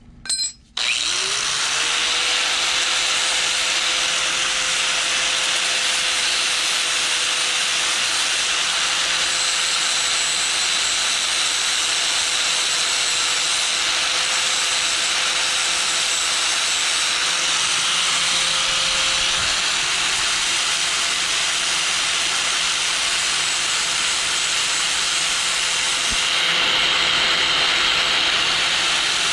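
Handheld electric power tool starting up with a rising whine that settles into a steady tone, then running continuously under load with a loud, even hiss as it works the steel bike frame.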